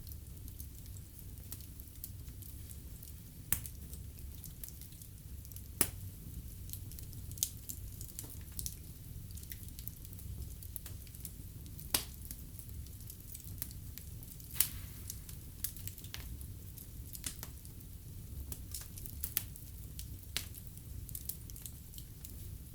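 Wood fire burning in a fireplace, crackling with scattered sharp pops over a low, steady rumble of the flames; the biggest pops come about six seconds in and again about halfway through.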